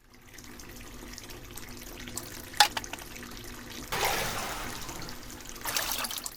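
Water running and splashing, with a sharp clink about two and a half seconds in and louder surges of flow near the end.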